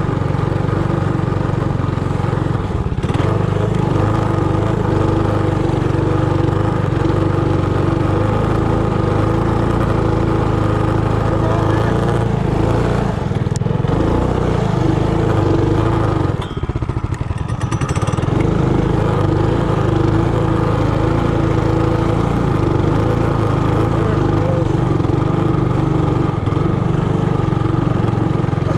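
Trailmaster Hurricane 200X minibike's small single-cylinder engine running steadily under throttle while being ridden. The engine sound drops briefly a little past halfway, as if the throttle is let off, then picks back up.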